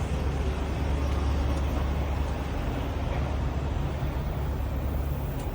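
A semi truck's diesel engine running steadily, a constant low hum with road or engine noise above it and no breaks.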